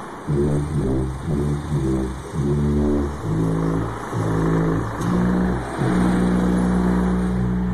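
Unexplained loud, low, horn-like drone, the 'strange sounds' heard across the sky. It comes as a string of short blasts less than a second apart, each a little different in pitch, then settles into one long held tone about six seconds in.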